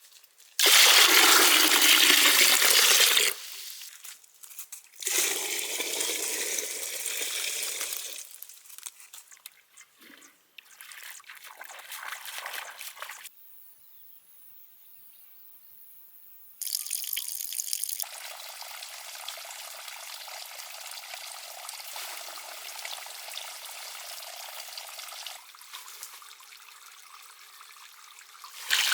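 Water pouring and trickling in several short stretches that start and stop abruptly, loudest in the first few seconds.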